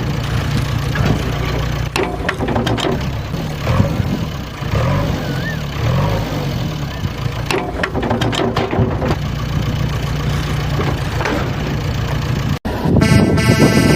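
An engine runs steadily at idle, its pitch wavering briefly around the middle. Near the end the sound cuts out for an instant and a loud horn-like tone takes over.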